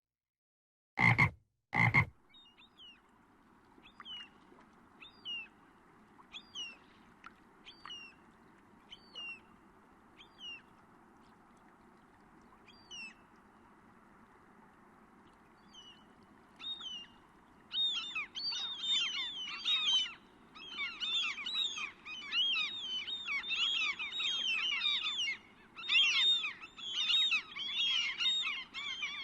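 Frogs calling: two loud croaks in the first two seconds, then scattered short chirping calls that swell into a dense chorus of many overlapping frog calls about two-thirds of the way through.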